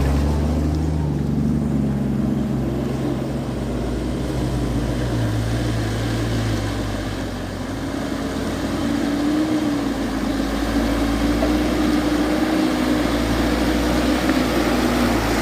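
Vehicle engines running on a hill climb: a deep engine hum fades away over the first several seconds, and a higher, steady engine note comes in later, rising slightly in pitch.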